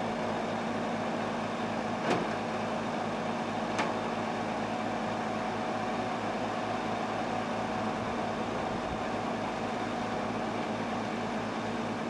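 1946 Dodge WFA-32 truck's stock 236.6 cubic inch flathead six idling steadily after being started with the hand crank. Two short clicks sound about two and four seconds in.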